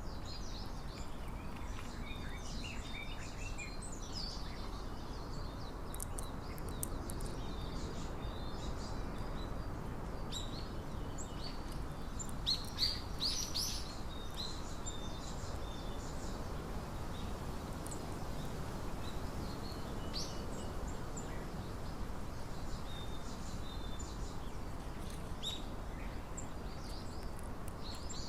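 Small birds chirping in short, scattered calls over steady low background noise, with a louder cluster of chirps about halfway through.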